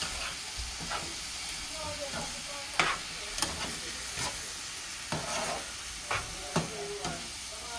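Pak choy sizzling in a hot pan as it is stirred, with a spatula knocking and scraping against the pan several times.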